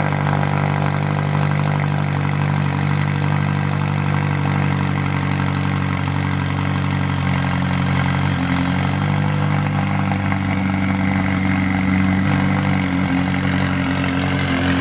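Car engine idling steadily, with a low, even note.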